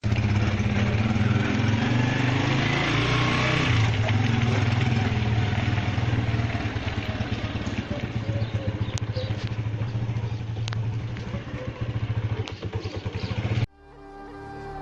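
A vehicle engine running steadily under a loud rushing noise, as when driving along a road. It cuts off abruptly about a second before the end, where music begins.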